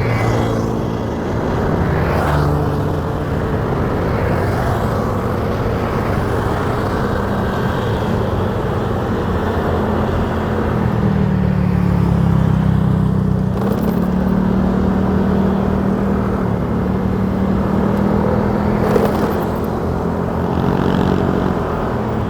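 Motorcycle engine running under way, its pitch shifting as the speed changes and rising about ten seconds in, over steady wind and road noise.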